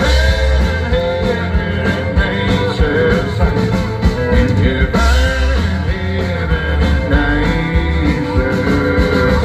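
Live band playing an instrumental passage, with melodic guitar lines over bass and drums, continuous and loud.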